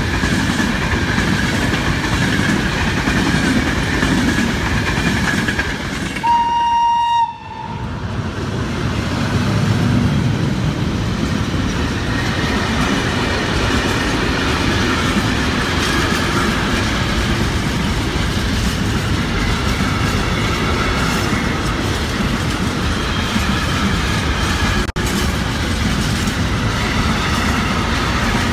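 Train wheels clattering steadily over the rails as passenger coaches roll past, with one train horn blast of about a second some six seconds in. Then a long container freight train rolls by with the same steady wheel noise.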